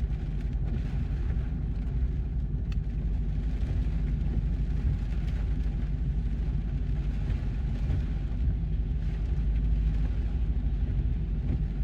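Steady road noise heard inside a moving car: a low rumble of engine and tyres on wet pavement.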